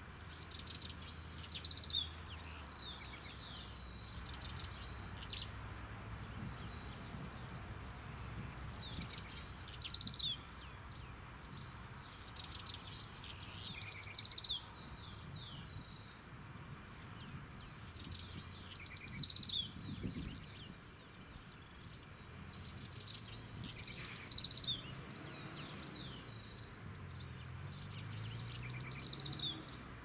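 Birds singing: short, high chirping phrases with quick sweeps, repeating every second or two over a low background rumble.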